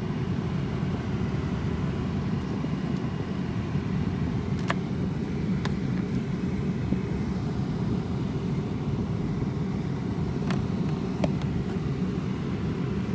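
Car engine idling steadily in park, a low, even running sound heard from inside the cabin, with a few light clicks over it.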